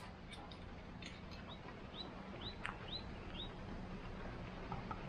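A bird chirping faintly: a series of about five short, high notes, roughly two a second, starting about a second and a half in.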